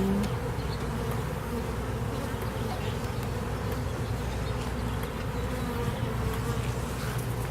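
Honey bees buzzing steadily around an opened hive during a frame inspection, a continuous low hum of many bees.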